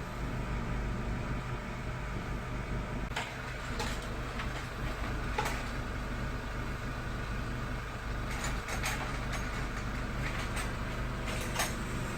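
Steady low running hum of a car, with scattered sharp clicks and taps in the middle and later part.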